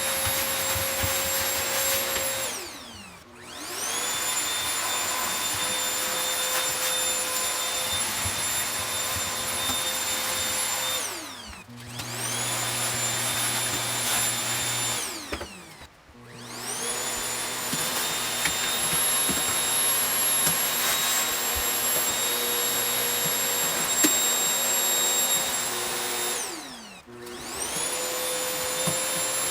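Vacuum cleaner running with a steady motor whine. About four times the motor winds down, its pitch falling away, then spins back up to speed.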